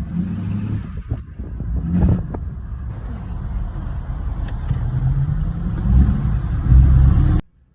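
Car engine and low road rumble as the car reverses into a parking space, with the engine note rising and falling a little; the sound cuts off suddenly near the end.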